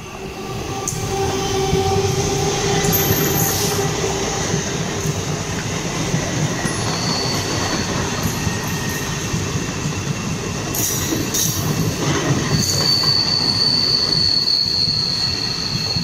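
Passenger train running on the rails: loud wheel and coach noise that builds over the first couple of seconds, with a sustained high-pitched wheel squeal in the second half.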